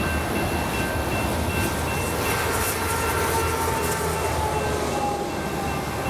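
Union Pacific freight train rumbling steadily out of sight on the line, after it has passed. Thin squealing tones slide slowly down in pitch about halfway through.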